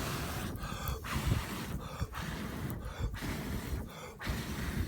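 Air being forced into a hot charcoal fire: a steady rushing that breaks off briefly about once a second, in rhythmic pulses, while the fire is pushed to heat knife steel for hardening.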